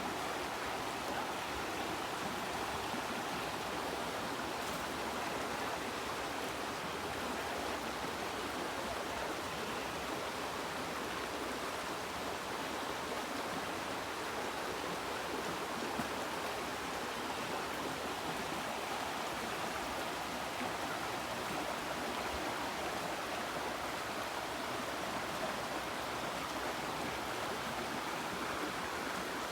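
A stream flowing steadily: an even, unbroken water noise with no distinct splashes or changes.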